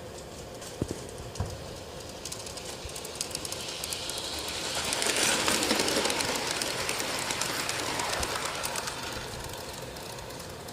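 G-scale garden railway model train running on outdoor track, its wheels clicking over the rails; it grows louder as it passes close by about five seconds in, then fades away.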